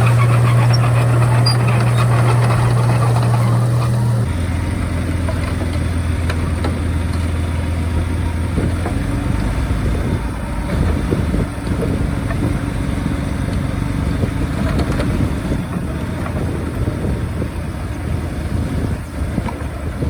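Bulldozer's diesel engine running under load, a steady hum whose pitch drops about four seconds in, followed by rougher rumbling and clatter from the working machine.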